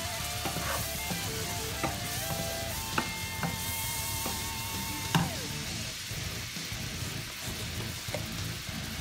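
Shrimp sizzling as they fry in oil in a nonstick pan, stirred with a wooden spatula that knocks against the pan a few times; the loudest knock comes about five seconds in. Background music with a melody plays over the first five seconds or so.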